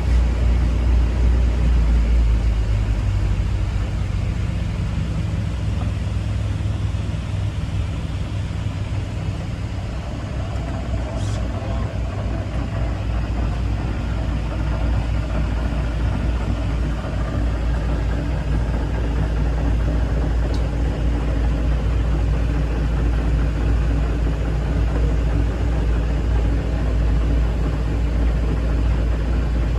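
Motorboat engine running steadily at low speed, heard from on board. It eases off a few seconds in and picks up a little again after about ten seconds.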